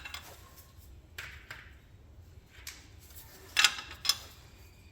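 Metal hand tools and hardware clinking: a few short, sharp metallic clinks, with the two loudest about half a second apart a little past the middle.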